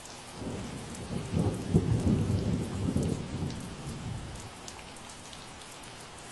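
Steady rain with scattered drips, and a low rumble of thunder that swells about half a second in, peaks around two to three seconds, and dies away by about four and a half seconds.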